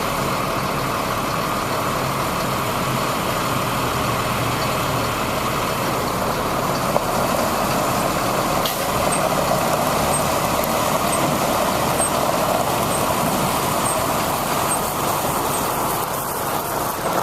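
2001 Ford flatbed dump truck's engine running steadily, with faint regular ticking about once a second from about nine seconds in.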